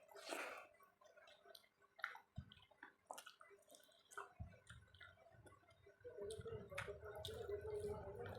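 Close-up eating sounds: soft, wet clicks and squishes of someone chewing rice with dal and omelette. A low steady hum comes in about six seconds in.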